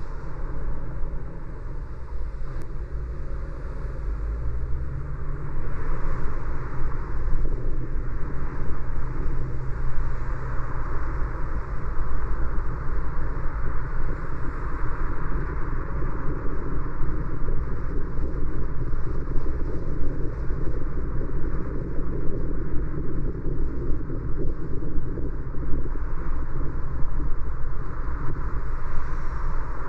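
Car driving on a city street: steady tyre, road and engine noise, a little louder from about six seconds in.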